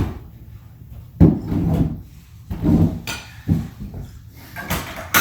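Irregular dull thumps and knocks, a few in each second or two, with a sharper knock at the very end.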